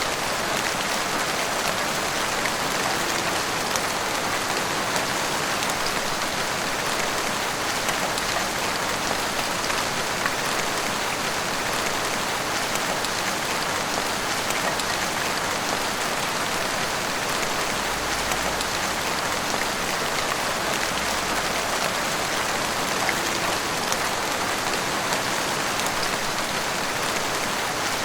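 Heavy rain falling steadily, an even hiss of downpour with the patter of drops hitting surfaces.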